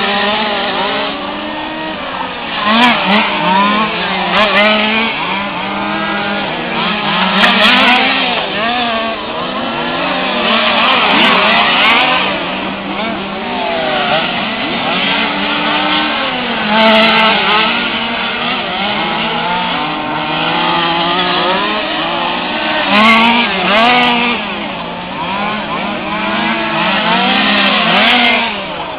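Several 1/5-scale radio-controlled cars' small two-stroke petrol engines racing together, their revs repeatedly rising and falling and overlapping as the cars accelerate and slow.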